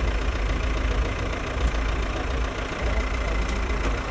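Volkswagen Passat's engine idling steadily while the car is strapped onto a small chassis dynamometer.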